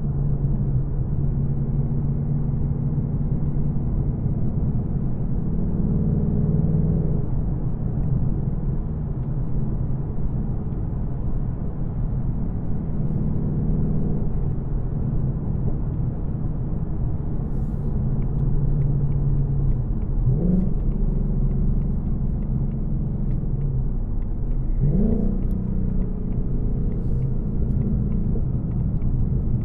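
2024 Ford Mustang GT's 5.0-litre V8, still without aftermarket headers, rumbling steadily while being driven. There are two quick rises in engine pitch, about twenty and twenty-five seconds in.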